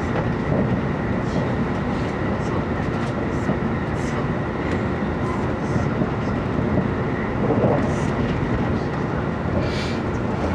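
Steady running noise inside a passenger car of an E257 series electric limited express train at speed: wheels on rail and the car's own sound, even and unbroken.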